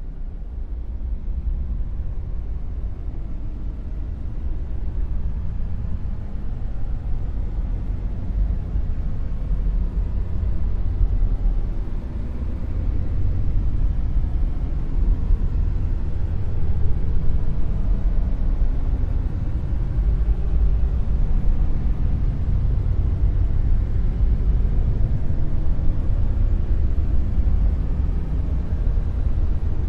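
Dark noise: a steady, deep rumbling hiss with nearly all its weight in the bass. It slowly swells in level over the first half, then holds.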